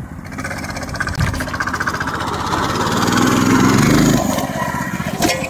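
Motovox mini bike's small single-cylinder engine revving, building steadily in loudness to about four seconds in, then easing off as the throttle drops.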